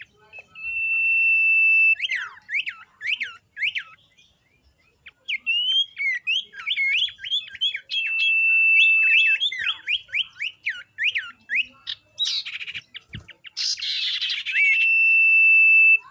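Common iora (sirtu) song. It holds long steady whistles on one note and mixes in fast runs of sharp downward-sweeping chirps. There are harsh, rasping chatters near the end, and a single low knock about 13 seconds in.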